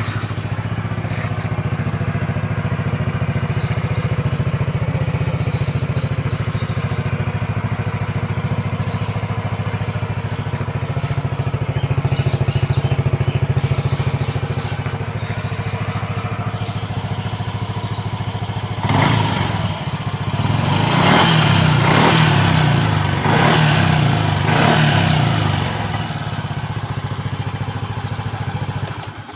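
Single-cylinder scooter engine breathing through a stock Kawasaki Ninja 250Fi muffler fitted as a custom exhaust: it idles steadily after starting, then is revved in a few short blips about two-thirds of the way through before settling back to idle.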